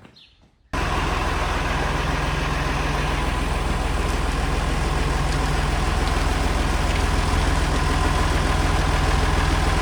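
Engine of the machine holding the loader bucket, running steadily at idle. It cuts in abruptly under a second in.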